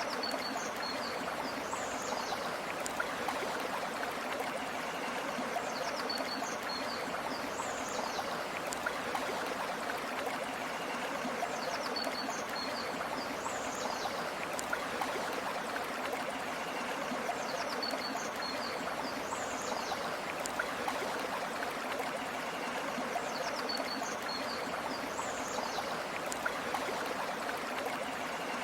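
Steady flowing river water, an even rushing and trickling. A short, high bird call of a few quick notes and a sweep repeats at regular intervals, about every five seconds, above the water.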